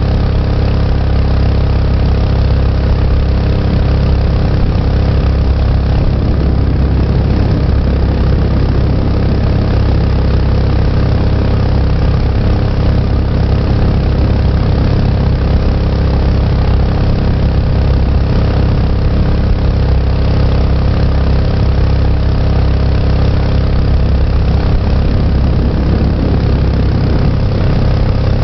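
Mokai jet boat's small gasoline engine running steadily at an even speed, a loud continuous drone that does not change.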